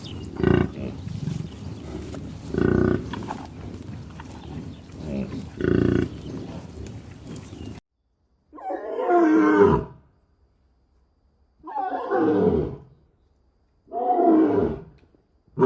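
A large animal's calls, three of them about two and a half seconds apart, each dropping in pitch, after a dense, noisier stretch of other animal sounds.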